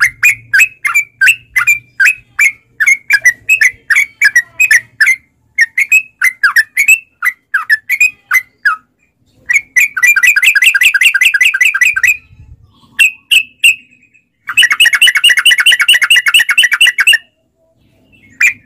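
Trucukan (yellow-vented bulbul) singing: a run of quick bubbly notes, several a second. Midway come two long, rapid rolling trills (the 'ropel'), with a brief pause before the notes start again near the end.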